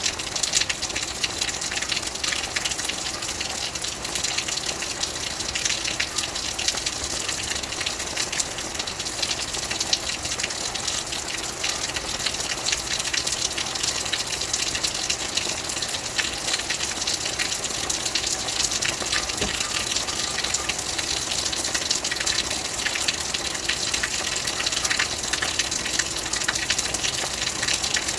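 Steady heavy rain: a dense, even hiss, brightest in the high range, full of fine drop ticks.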